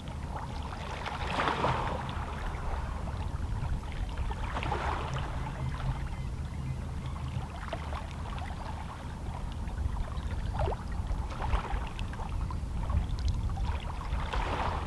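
Small waves on a calm sea lapping against shoreline rocks: a soft wash that swells and fades every three seconds or so, with small splashy ticks, over a steady low rumble.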